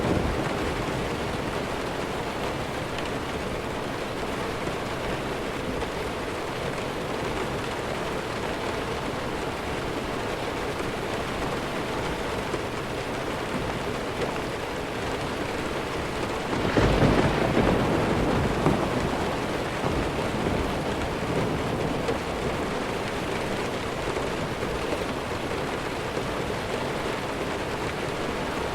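Steady heavy rain, with a roll of distant thunder swelling up about two thirds of the way in and fading over a couple of seconds.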